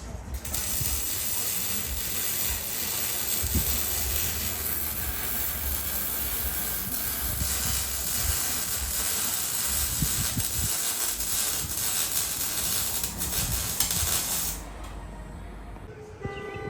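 Loud, steady rush of wind over the low rumble of a 2024 Mustang GT's 5.0 V8, straight-piped through an H-pipe and muffler delete, driving with the windows down. The rush cuts off suddenly near the end.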